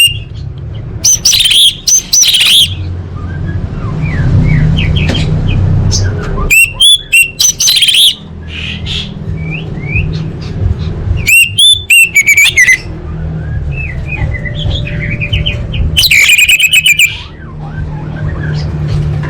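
Female orange-headed thrush calling: four loud bursts of rapid, high, repeated chirps a few seconds apart, with fainter bird notes between them over a low background rumble.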